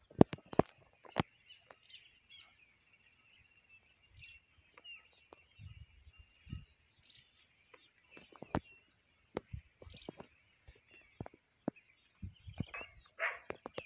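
Scattered sharp clicks and rustles of someone walking through a field of corn and beans, loudest near the start and about midway. Birds chirp faintly behind, over a thin steady high buzz.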